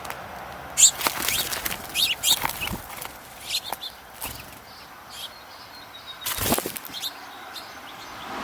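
Birds at close range: a scatter of short high chirps and rustling clicks, with one louder rush of noise about six and a half seconds in.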